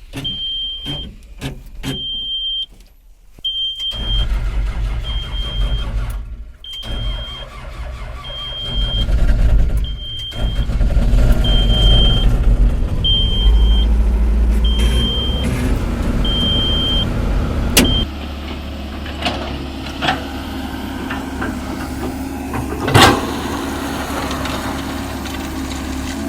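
Heavy diesel engine running loud, with a warning alarm beeping at one pitch about once a second until it cuts off about two thirds of the way through. A sharp knock near the end.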